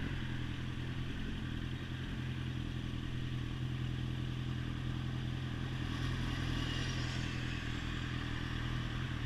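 Motorcycle engine running at a steady pitch while riding, with a steady rushing noise over it.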